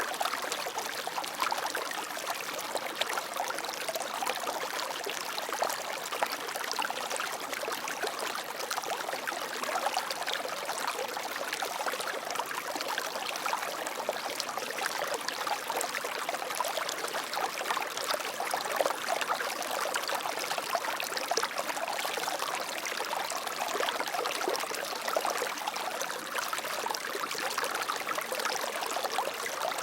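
Water flowing steadily in a small stream, an even rush flecked with many small trickles and splashes.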